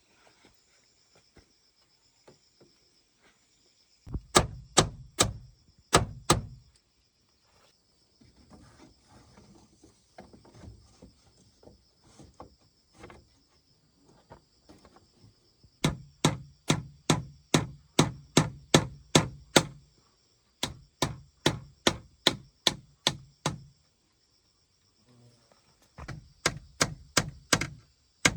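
Repeated chopping or hammering blows on wood, about three strikes a second, in runs of several seconds with pauses and softer knocking between.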